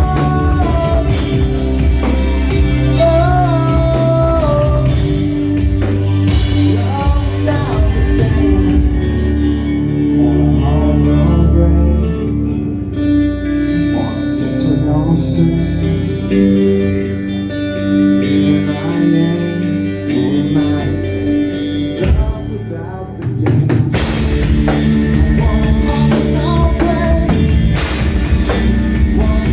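Rock band playing live with singing, electric guitar and drum kit. The drums and cymbals drop out for a quieter stretch in the middle, and the full band comes back in loudly near the end.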